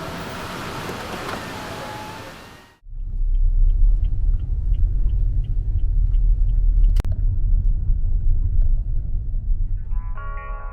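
Steady low rumble of a car driving, heard from inside the cabin, after a few seconds of even hiss that cuts off abruptly. A single sharp click comes about seven seconds in.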